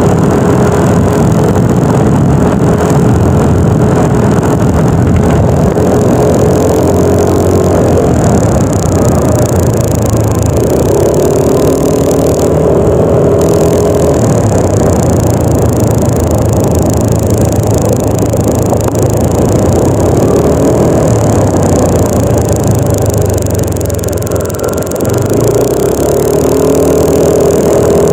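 Yamaha NMAX 155 scooter's single-cylinder engine running under way, its note rising and falling with speed over a steady rush of wind. It eases off briefly near the end.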